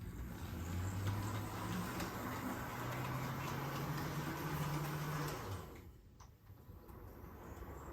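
Proto 2000 PA1 HO scale model diesel locomotive running on Atlas Code 83 track: the electric motor's hum, which rises in pitch about three seconds in, and a steady rolling noise from the wheels, falling away after about five seconds. It runs nice and quiet, without the tick-tick of flanges striking the sleeper plates, a sign that its flanges clear the track.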